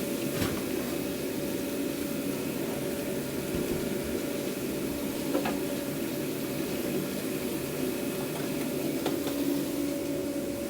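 Steady hum and hiss of a food truck kitchen, with a few light clicks about half a second, five and nine seconds in.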